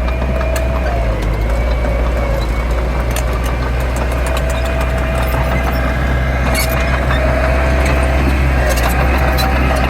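Heavy construction-machine diesel engine running steadily with a deep hum and a wavering whine above it. A few sharp clicks and knocks come about two-thirds of the way through and again near the end.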